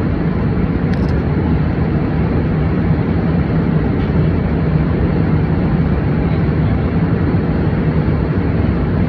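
Steady airplane cabin noise in flight: the even rush of engines and airflow with a low hum.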